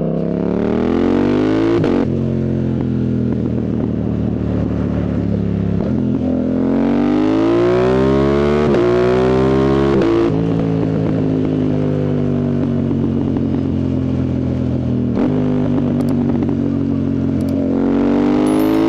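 Yamaha MT-07's CP2 parallel-twin engine on a loud full exhaust with the dB killer removed, pulling hard with the pitch rising and then holding steady. Several brief breaks mark quickshifter gear changes, and it climbs again near the end.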